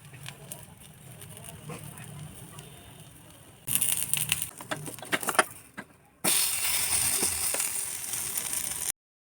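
Food sizzling and crackling in a hot pan, with sharp clicks and rattles of a utensil on the pan. The sizzle jumps louder about four seconds in, falls away, then returns as a steady loud hiss after about six seconds and cuts off abruptly shortly before the end.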